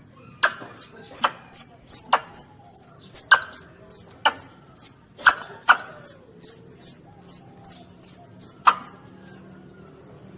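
Baby Asian palm civet (luwak) calls: a rapid series of short, high squeaks, each sweeping downward, about three a second, mixed with sharp clicks about once a second. The squeaks stop shortly before the end.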